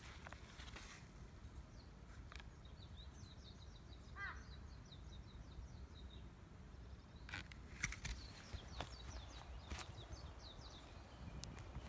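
Faint outdoor birdsong: runs of quick, high chirps, with one lower call about four seconds in. A few sharp clicks come in the second half.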